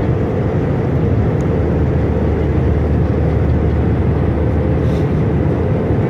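Steady airliner cabin noise at cruise: a constant low rush of jet engines and airflow, with a faint steady hum running through it.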